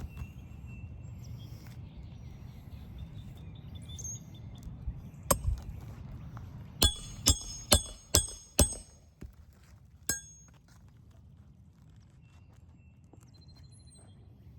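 Hammer striking a steel roof snake to drive a roofing nail under an asphalt shingle: sharp metallic clinks with a ringing tone. There is one strike about five seconds in, a quick run of five over the next two seconds, and a last one around ten seconds in.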